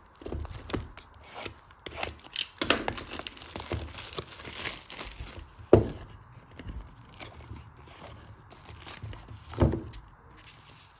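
Packaging being handled and opened: crinkling and tearing of wrapping amid many small clicks and rustles, with a sharper knock about six seconds in and another near ten seconds.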